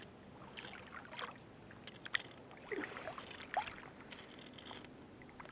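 Paddle strokes in water and drips off the paddle while a small paddled boat is steered: quiet splashes and light knocks at irregular intervals.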